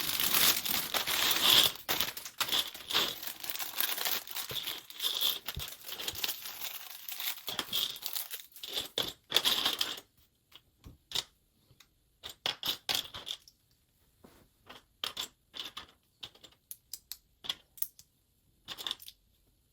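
Plastic crinkling and tearing for about ten seconds, likely LEGO parts bags being handled and opened. Then scattered sharp clicks and short rattles of small plastic pieces.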